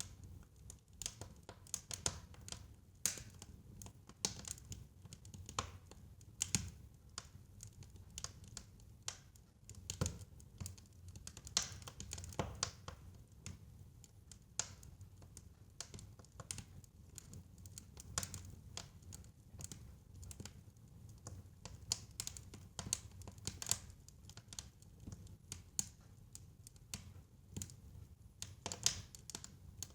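Fire in a fireplace crackling: irregular sharp pops and snaps, sometimes several a second, over a low steady rumble.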